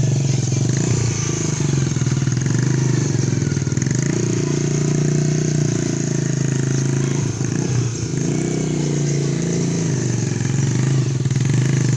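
Homemade motorcycle's engine running steadily, with a brief dip in level about eight seconds in.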